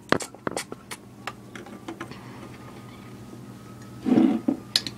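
Small hard plastic toy pieces clicking and knocking as they are handled, in scattered light clicks, with one short, louder rustling burst about four seconds in.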